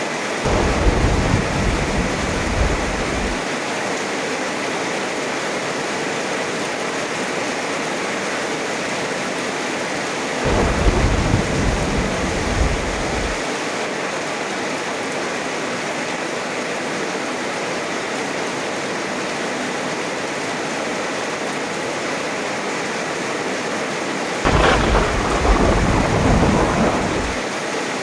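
Heavy rain falling steadily, with three rolls of thunder about ten seconds apart, each a low rumble lasting about three seconds. The last one opens with a sharp crack.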